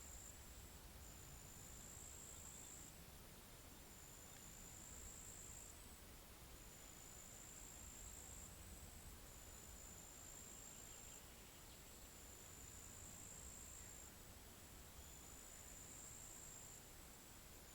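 Faint high-pitched insect trill, probably a cricket, coming in repeated stretches of about one and a half to two seconds with short breaks, over a faint low rumble.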